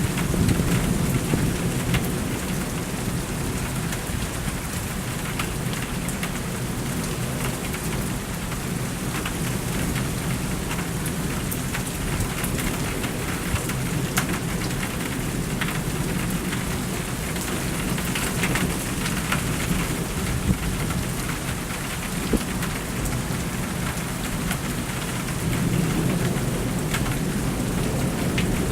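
Thunderstorm: steady rain pattering with thunder rumbling low, the rumble swelling about a second in and again near the end.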